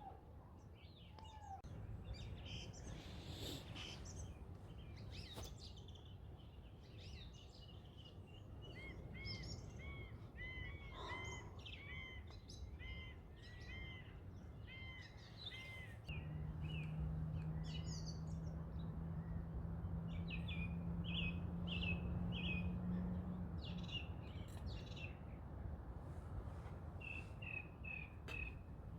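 Wild birds singing, with many short, repeated arching chirps over a low, steady outdoor rumble. A steady low hum joins in about halfway through and stops about three-quarters of the way in.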